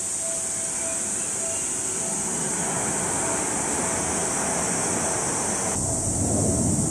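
Seibu 6000-series electric train pulling slowly into the station round a curve, its running rumble growing steadily louder and swelling near the end. A level-crossing warning bell rings in even repeated beeps throughout.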